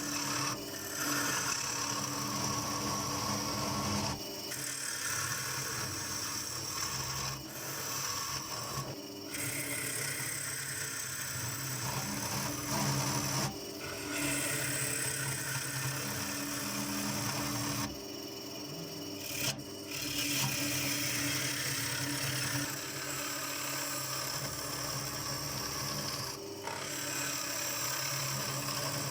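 Wood lathe running with a steady motor hum while a tool rubs and scrapes against the spinning bird cherry wood of a bowl. The sound comes in several long stretches, broken by short pauses.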